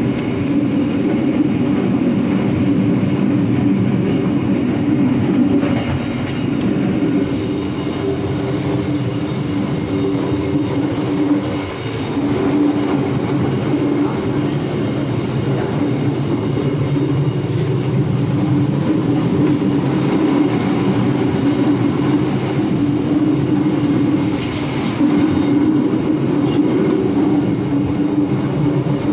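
Economy-class passenger train heard from the vestibule between carriages while running: a loud, steady rumble of wheels on rails, with a droning low band, dipping briefly twice.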